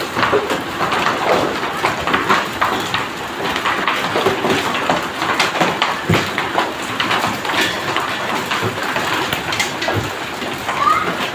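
Heavy rain mixed with hail falling hard, a dense steady patter of many small impacts on hard surfaces.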